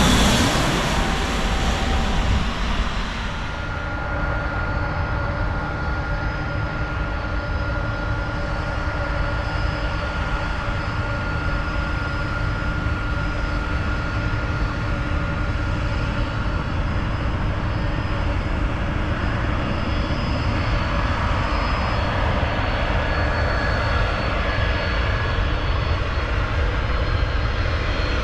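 Jet airliner passing low overhead on its landing approach, its engine whine dropping in pitch as it goes by right at the start, then a steady jet engine rumble with constant high whining tones.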